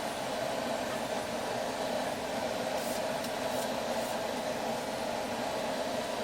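Steady rushing hiss of a homemade two-burner propane forge running, both burners lit at about 10 PSI. A few faint high ticks come about three seconds in.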